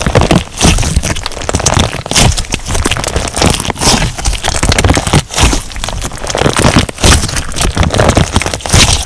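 Crunch slime being squeezed and pressed by hand, a dense run of crackles and pops as the crunchy bits in it burst and the slime snaps.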